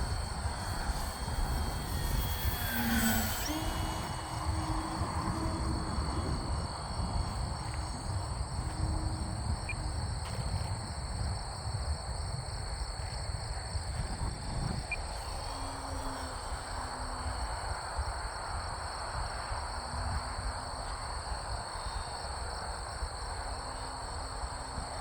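Wind rumbling on the microphone under a steady high chirr of crickets. About two to three seconds in, an electric RC aerobatic biplane fitted with an exhaust whistle passes, its whistle falling in pitch as it goes by.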